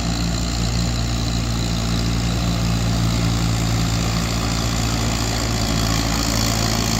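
Tractor engine running steadily, a constant low-pitched drone that slowly grows louder.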